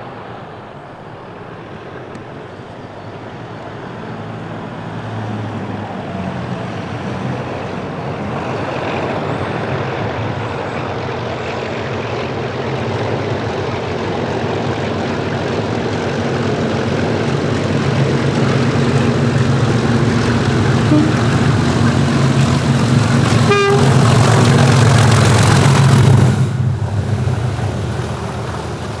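Class 37 diesel locomotive's English Electric V12 engine working hard as it pulls away, growing steadily louder as it approaches. It peaks about 26 seconds in, then drops away suddenly as it passes.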